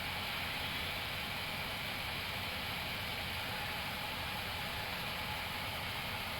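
Steady rushing hiss of an Airbus A321neo flight deck in descent: airflow and ventilation noise, even and unbroken.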